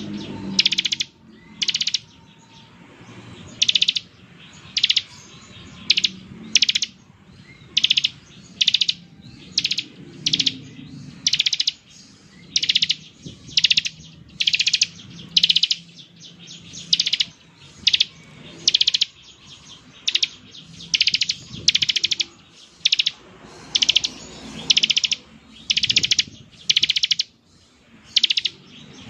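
Bar-winged prinia (ciblek) giving its 'ngebren' call: short, rapid buzzy trills, repeated about once or twice a second.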